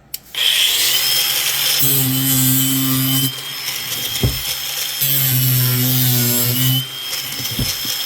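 A handheld power tool starts about a third of a second in and runs at high speed with a steady high whine. A louder low buzz comes in three times, each for about a second and a half.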